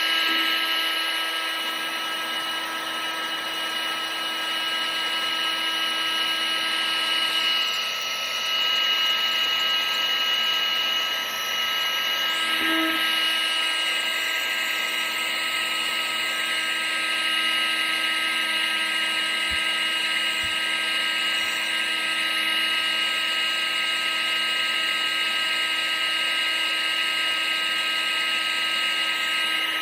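Vacuum cleaner motor running steadily: a constant rushing hiss with a high motor whine, its pitch shifting slightly a couple of times.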